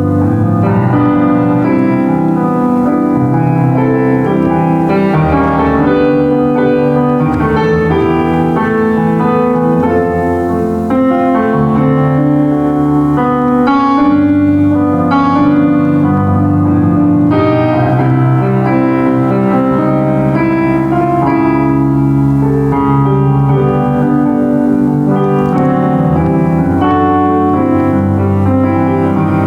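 Solo piano playing a hymn-style worship song in full chords over held bass notes.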